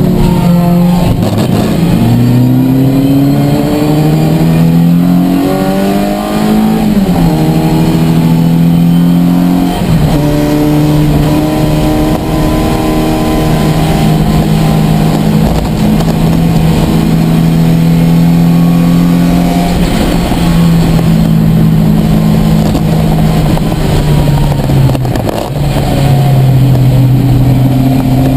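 Ford Fiesta race car's engine heard from inside the cabin under racing load, the pitch climbing through the revs and dropping sharply at several gear changes, with long steady stretches held between them.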